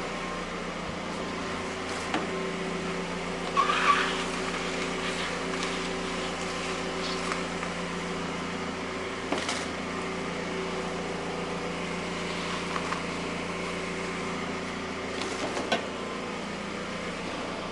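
Car engine idling steadily at a raised warm-up idle while still cold. A few short clicks and knocks sound over it.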